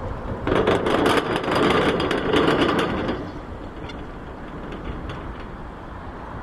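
Train noise: a loud clattering rattle for about two and a half seconds, then a steadier low rumble.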